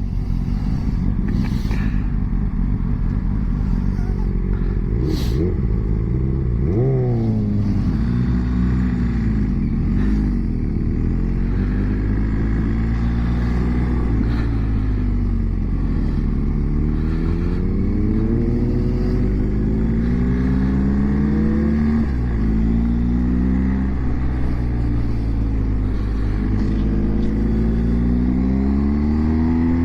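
BMW GS motorcycle engine heard from the rider's seat, its pitch rising and falling several times as it accelerates and changes gear, over a steady rush of wind and road noise.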